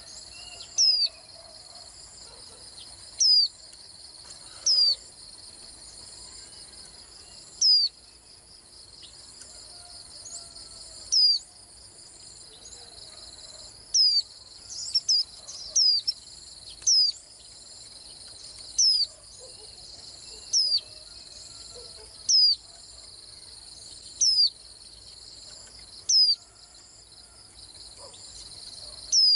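White-eye calling: short, thin, high single notes that sweep quickly, about one every two seconds, with a brief quicker flurry about halfway. A steady high insect drone runs underneath.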